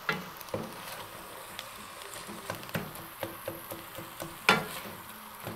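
Chopped spinach frying in a pan, sizzling and bubbling as a wooden spoon stirs and mashes it, with scattered light taps of the spoon against the pan. One sharper knock comes about four and a half seconds in. The spinach is being fried down until its water cooks off.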